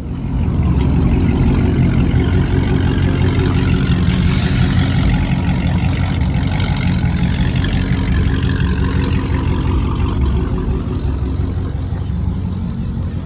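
A car engine running loudly and steadily close by, coming up about half a second in and easing off slightly near the end. A brief high hiss comes about four seconds in.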